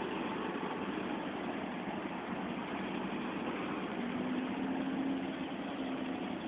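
Forklift engine running steadily, its hum growing a little louder about four seconds in, then easing.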